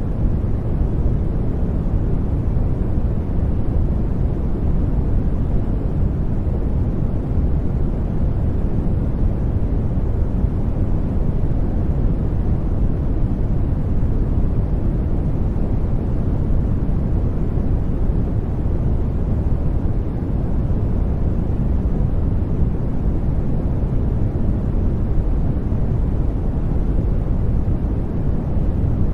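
Brown noise: a steady, deep rumbling hiss, loudest in the low end and falling away toward the highs, with no changes.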